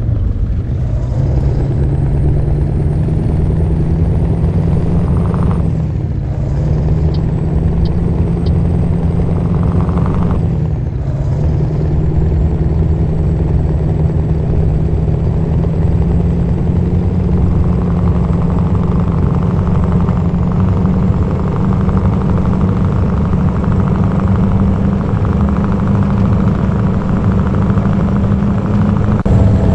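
Scania R-series truck's V8 diesel engine running loudly and steadily, its pitch dipping briefly twice in the first dozen seconds and then climbing slowly, with a thin high whistle above it.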